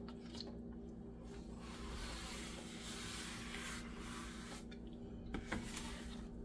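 Faint rubbing and wiping of a pad over a glass cooktop, in soft strokes with a couple of light clicks, over a steady low hum.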